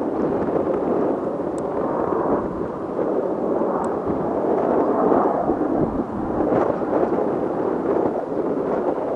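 Blue Impulse Kawasaki T-4 jet trainers in flight: a continuous, loud jet-engine rumble that swells and eases slightly without ever dropping out.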